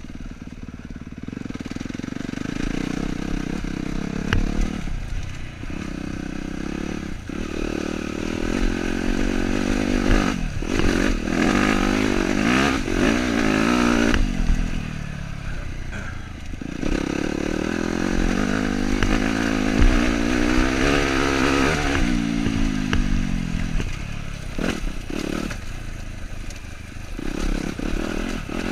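Dirt bike engine running while ridden, its pitch rising and falling repeatedly with the throttle, mixed with knocks and rattles from the bike going over rough ground.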